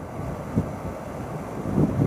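Wind buffeting the microphone over the low running noise of a Yamaha WR250R single-cylinder dual-sport motorcycle on the move.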